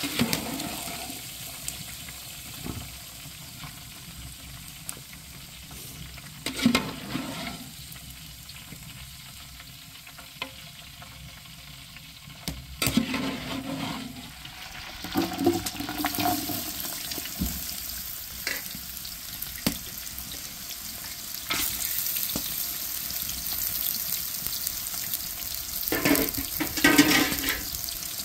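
Food frying in hot oil in a metal pot, a steady sizzle that is strongest at the start and through the second half. Scattered clinks and scrapes of a metal ladle against the pot, the loudest cluster near the end.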